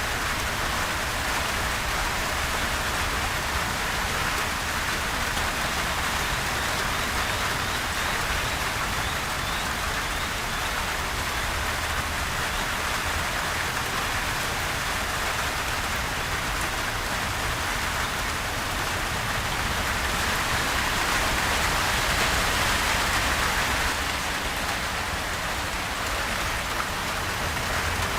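Gentle steady rain falling, a continuous even hiss of drops that grows a little louder for a few seconds about three quarters of the way through.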